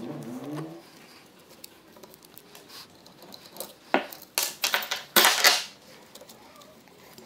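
Metal tools and engine parts clinking and knocking as the engine is taken apart: a few sharp knocks about four seconds in, then a short run of clatter around five seconds in.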